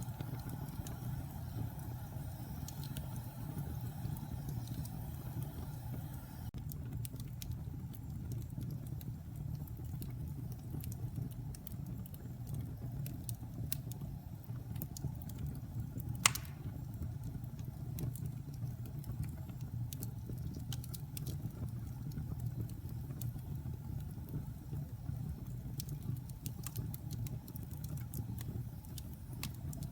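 Log fire burning in a fireplace: a steady low rumble of flames with scattered small crackles, and one loud pop about halfway through.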